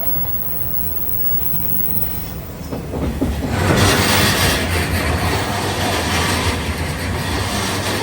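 A train running by on the rails, its noise swelling sharply about three seconds in and staying loud, over a steady low rumble.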